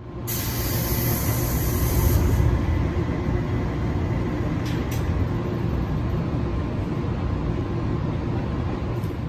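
Electric train running: a steady low rumble, with a brighter hiss over the first couple of seconds and two short clicks about five seconds in.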